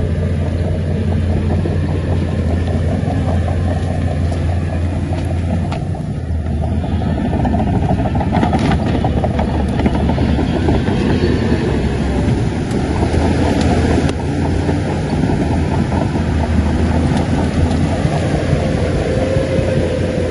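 Shantui crawler bulldozer's diesel engine running steadily, with the clanking rattle of its steel tracks and a few sharp knocks midway.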